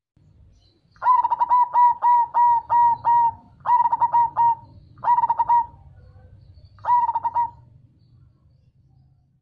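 Zebra dove (perkutut) singing its cooing song: a quick run of about seven rolling coos starting about a second in, then three shorter phrases with brief pauses between them.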